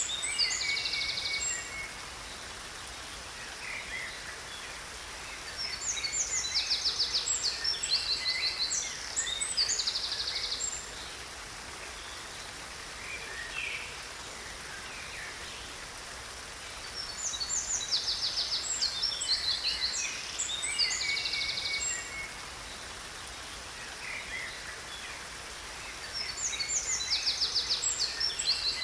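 Songbird singing in bursts of fast, high trills and chirps a few seconds long, repeating about every eleven seconds, over a steady rush of falling water.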